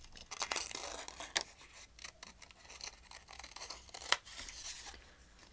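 Scissors snipping through scrapbook paper: a run of short, irregular cuts and paper rustles, with one sharper snip about four seconds in.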